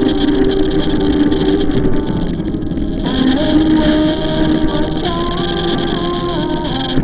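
Steady rush of road and wind noise, as from riding among traffic, with a melody playing over it from about three seconds in.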